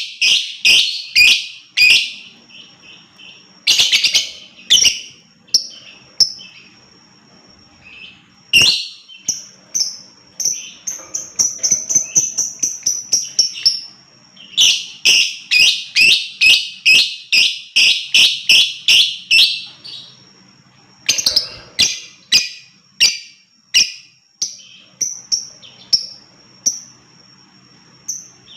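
Lovebird calling in loud, sharp, shrill chirps, broken into rapid runs of about four chirps a second, with one gliding call that rises and falls near the middle.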